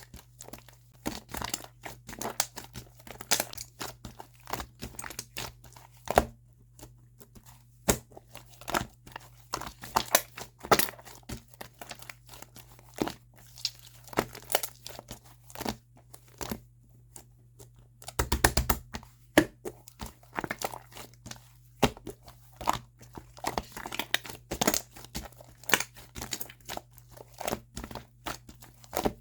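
Purple shaving-foam slime being squished and stretched by hand. It gives off irregular sticky clicks and crackling pops from trapped air bubbles, with a few short quieter pauses, over a low steady hum.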